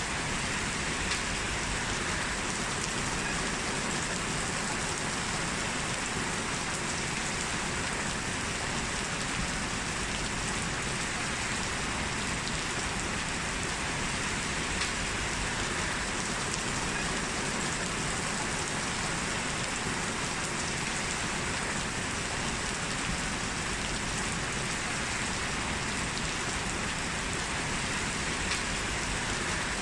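Heavy rain falling steadily on hard surfaces, an even hiss with faint scattered drop ticks.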